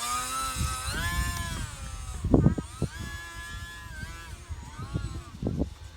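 Small electric RC airplane motor and propeller whining, its pitch rising and falling as it flies. Gusts of wind rumble on the microphone, loudest about two and a half seconds in and again near the end.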